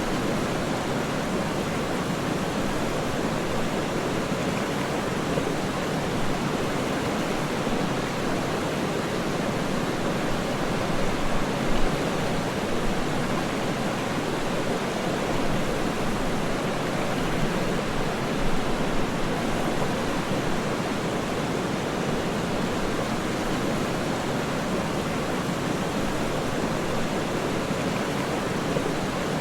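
Waterfall: a steady, even rush of falling water that holds its level throughout, with no separate splashes standing out.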